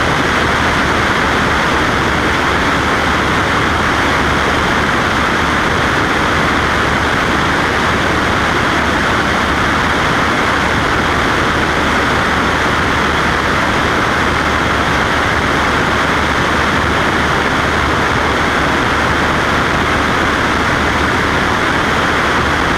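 Cessna Skywagon's piston engine and propeller running steadily in flight, an unbroken drone.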